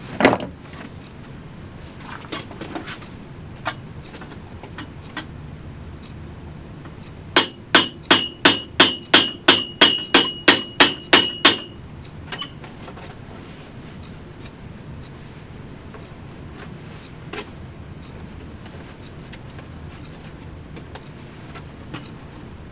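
Hammer setting a copper rivet: a quick run of about fifteen sharp metal-on-metal blows lasting about four seconds, each leaving a brief ringing note, with a few lighter taps before and a single knock later.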